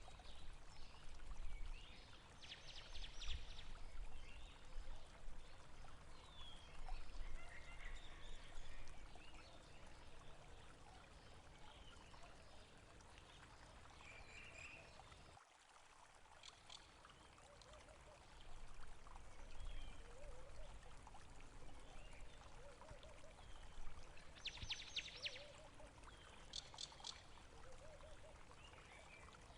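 Running water trickling steadily, with small birds chirping and trilling now and then. There is a brief drop about halfway, where the recording cuts to another clip.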